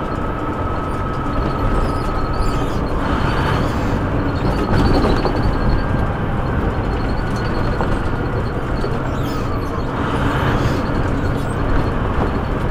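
Steady engine and road noise inside a semi truck's cab while driving, with two brief swells of higher noise about three and ten seconds in.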